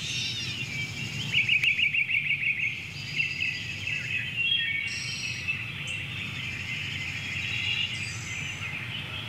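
Birds singing and chirping, with a fast trill about a second and a half in, over a low steady hum.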